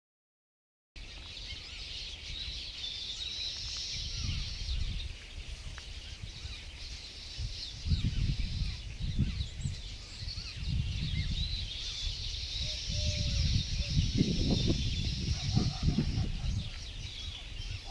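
Many small birds chirping together in a dense, steady high chorus. Irregular low rumbles run underneath, growing stronger in the second half.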